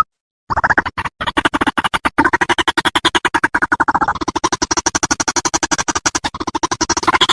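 White-breasted waterhen calling: after a brief pause, a fast, continuous string of harsh croaking notes, about a dozen a second. This is a played-back lure call used to attract waterhens.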